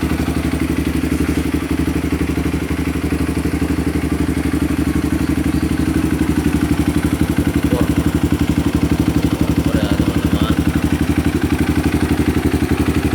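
Honda CRF150L's single-cylinder four-stroke engine idling through an aftermarket Over exhaust, a steady, even beat with no revving.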